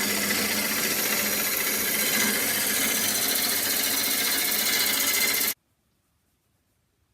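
Wood lathe running while a turning tool cuts into the spinning wood, a steady loud cutting noise that stops abruptly about five and a half seconds in.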